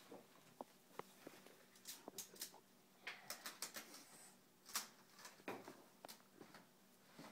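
Faint, irregular clicks and light plastic clatter of Magformers magnetic building tiles being handled and snapped together.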